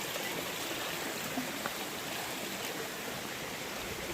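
Shallow stream running over rocks and stones: a steady rush of flowing water.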